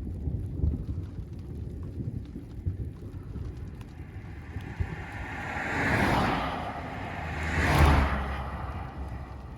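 Two cars passing close by, one after the other, the second passing about two seconds after the first and louder. Under them, a low rumble of wind and dying thunder.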